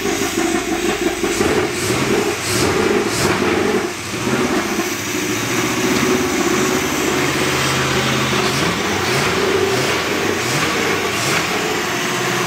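The 440 big-block V8 of a 1970 Chrysler 300, a first start-up after a rebuild, running steadily near idle. Its speed rises and falls a few times in the second half.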